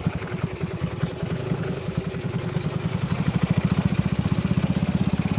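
Honda Grand motorcycle's small single-cylinder four-stroke engine running while under way, a fast, even putter that grows steadier and slightly louder about halfway through.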